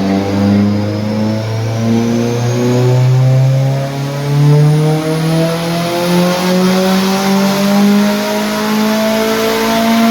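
Car engine at full throttle on a chassis dyno, revs climbing steadily through a power run, with a faint high whine rising alongside.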